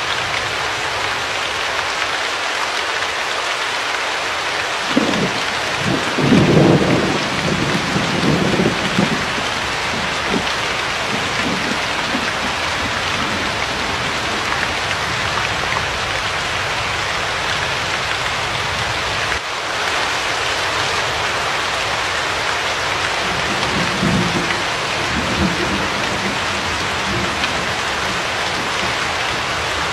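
Steady heavy rain, an even hiss, with thunder rumbling about five seconds in for several seconds and again, more weakly, around twenty-four seconds in.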